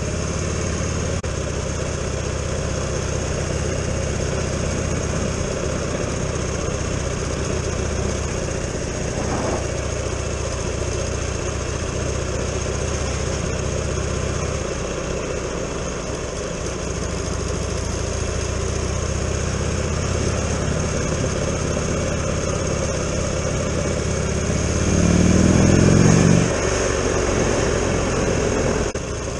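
Motorcycle engine running at a steady road speed under a constant rush of wind noise. Near the end the engine note rises and gets louder for a couple of seconds as the bike accelerates, then drops back.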